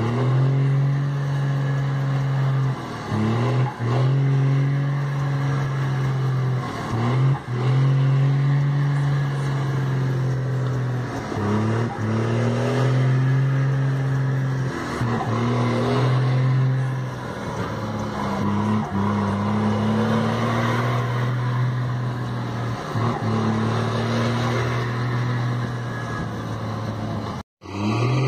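Heavy truck engine running hard at a held, fairly steady pitch, broken every few seconds by short dips as the driver shifts gears. The sound drops out briefly near the end.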